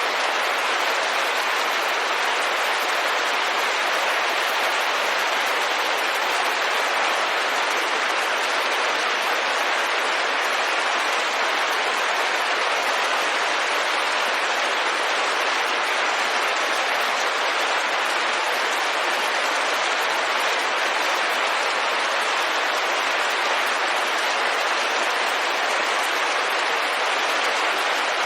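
Steady, dense rain pattering on a window pane, an even hiss of many drops with no separate hits standing out.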